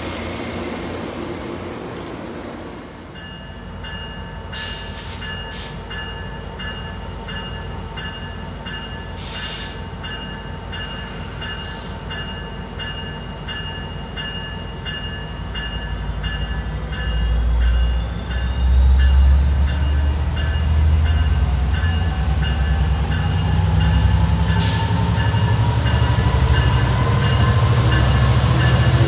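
Amtrak passenger cars rumbling past on the rails. Then a bell rings at a steady rhythm while an Amtrak F59PHI diesel locomotive approaches, its engine rumble growing much louder from about halfway in, with a slowly rising whine.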